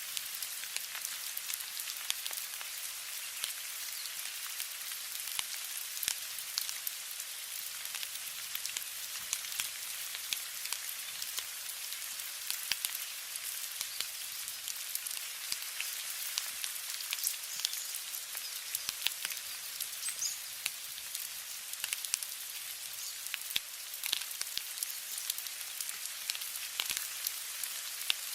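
Steady rain: a continuous hiss dotted with many sharp ticks of individual drops hitting a surface.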